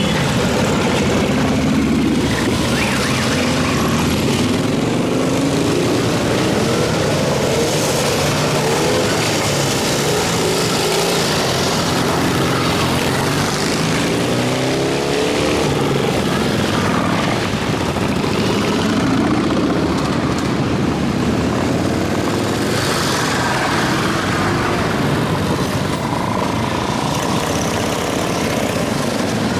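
A stream of motorcycles riding past in a parade, many engines running at once, with overlapping rises and falls in pitch as riders open and close the throttle.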